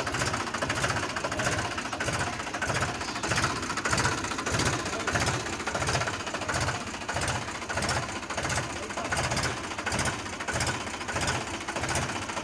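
Mahindra tractor's diesel engine running with a steady, rhythmic clatter.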